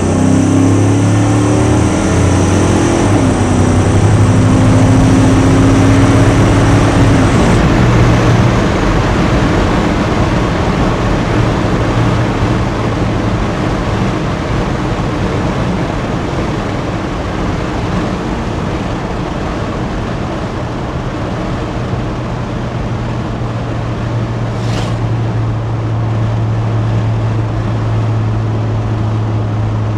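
1983 Chevy C10 pickup driving, heard from inside the cab with the windows down: the engine and exhaust rumble with wind and road noise. The engine note climbs and shifts under acceleration for the first several seconds, then settles to a steady cruise. There is a single brief click about 25 seconds in.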